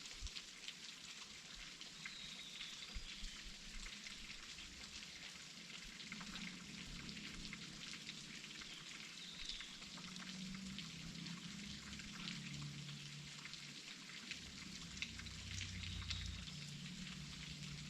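Waterfall: a steady hiss of falling water, peppered with many small splashes and drips.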